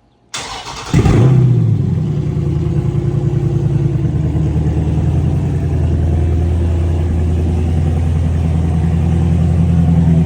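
Dodge Challenger 1320's 6.4-litre 392 Hemi V8 cranking on the starter and firing about a second in with a brief flare, then settling into a steady, pulsing idle. It is a cold start after the car has sat undriven for at least six months.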